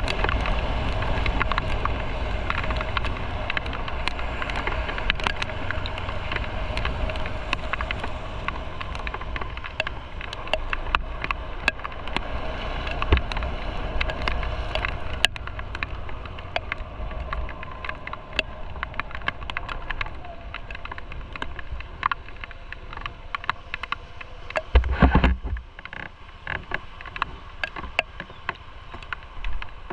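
Motorcycle running on the road, with its engine note and low wind rumble on the microphone, gradually getting quieter over the stretch. There are many small scattered ticks throughout and a short loud rumble about 25 seconds in.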